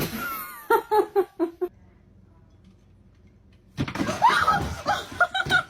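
A person laughing in two fits of short, quick "ha-ha" bursts, with a pause between them.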